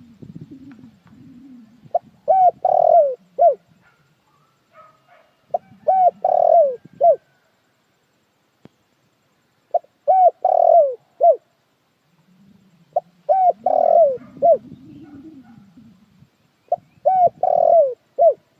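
Spotted dove cooing: five phrases about four seconds apart, each a few short coos ending in a longer, falling one, used as a lure call to draw in wild doves.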